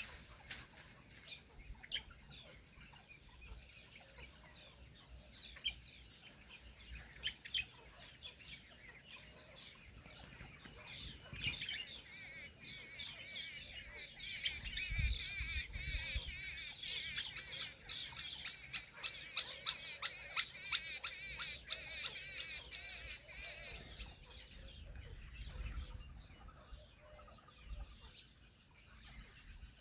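Birds chirping and clucking, swelling to a dense twittering chorus through the middle, with scattered sharp clicks.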